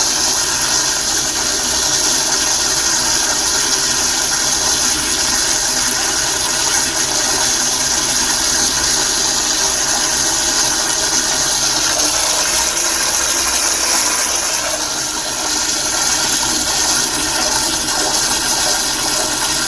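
Toilet flushing in one long, continuous rush of water that keeps going without a break, easing slightly about three-quarters of the way through.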